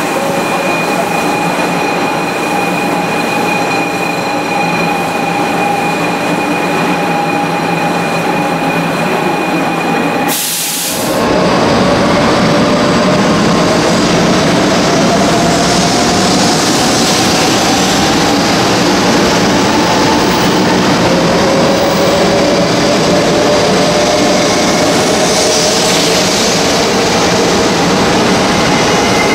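500 series Shinkansen pulling out alongside a station platform: rushing running noise with a motor whine that slowly rises in pitch as the train gathers speed. Before that, a steady train noise with a held whine cuts off abruptly about ten seconds in.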